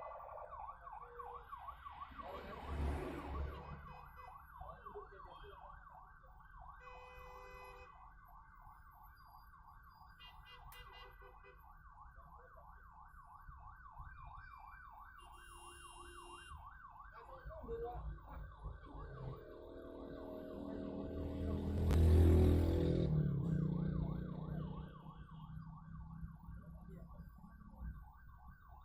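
An emergency vehicle's siren sounding continuously in a fast, even warble. About two-thirds of the way through, a vehicle's engine noise swells to the loudest point and fades away.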